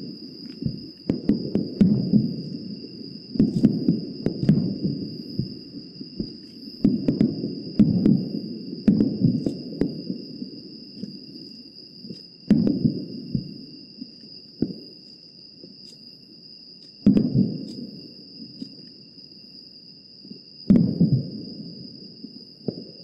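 Aerial firework shells bursting one after another, each a sharp bang followed by a long, rolling low echo. The bursts come in quick succession for the first ten seconds or so, then every few seconds.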